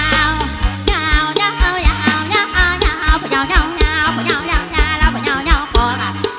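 Mor lam sing performance: a singer's long, heavily ornamented vocal line with wide vibrato over an electric band with a steady kick-drum beat.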